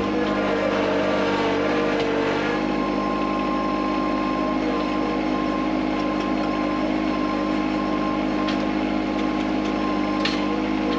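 Yanmar SA325 compact tractor's three-cylinder diesel engine running at a steady speed, with a faint click or two near the end.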